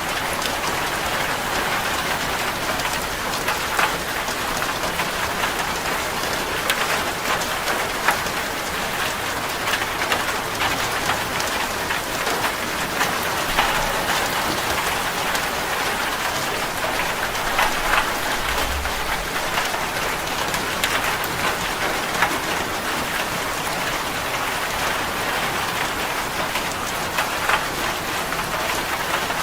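Steady rain falling on a corrugated zinc roof, with sharp individual drop ticks scattered through it.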